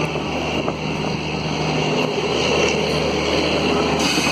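Passenger train coaches rolling along the track with no locomotive attached: a steady rumble of steel wheels on rails, with no engine sound.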